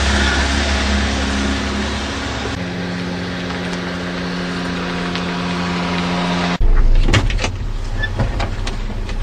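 A car's engine running close by, a steady hum. About two-thirds of the way through the sound cuts abruptly to a lower rumble with scattered knocks.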